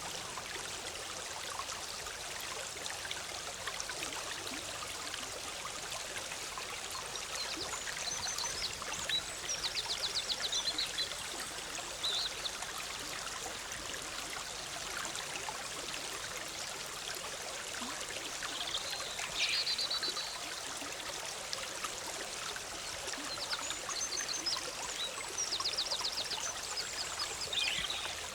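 Forest stream babbling steadily over rocks, with small songbirds calling above it: several short, rapid high trills and a few single sharp notes, one falling in pitch.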